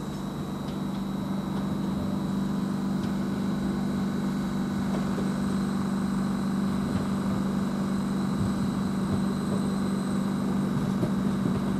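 Greater Anglia Class 755 bi-mode unit running on its diesel engines: a steady low engine hum that swells a little over the first couple of seconds, then holds.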